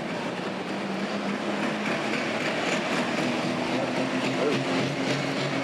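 Diesel engine running at a steady speed with a steady hum. A second, lower engine note comes in and grows louder near the end.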